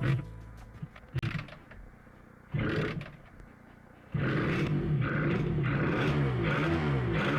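Suzuki RG250Γ two-stroke engine being started after long storage: a few knocks and a short burst, then about four seconds in it catches and runs, revved up and down.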